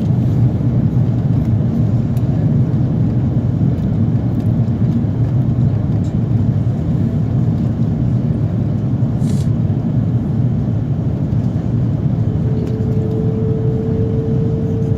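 Airbus A330 cabin noise during the descent to land: a steady low drone of engines and airflow. About twelve seconds in, a steady mid-pitched hum starts and holds.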